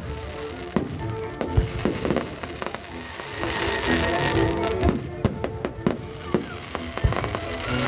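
Fireworks and firecrackers going off repeatedly in irregular sharp bangs, with music playing underneath.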